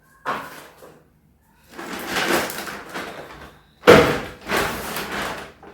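Groceries being handled and unpacked: rustling and handling noise, with a sharp knock a little before four seconds in.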